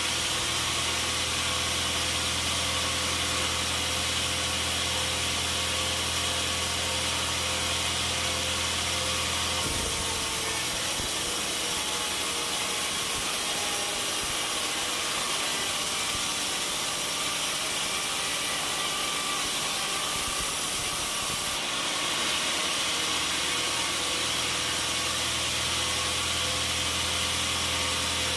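Sawmill machinery running steadily with a deep mechanical hum. About ten seconds in the hum drops away and a higher hiss comes up; it returns about twelve seconds later.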